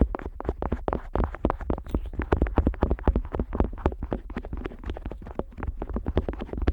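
Otoscope rubbed and pressed rapidly against the rubber ear of a Neumann KU100 dummy-head microphone, heard right at the ear: a dense run of scrapes and pops, many a second, with deep thumps.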